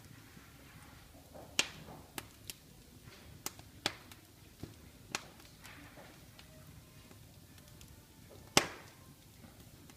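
Wood fire in a fireplace crackling: irregular sharp pops and snaps over a soft low rustle of the flames, the loudest pop about eight and a half seconds in.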